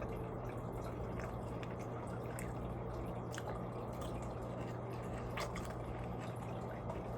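Faint wet mouth clicks of someone quietly chewing food, with a few scattered clicks over a steady low electrical hum.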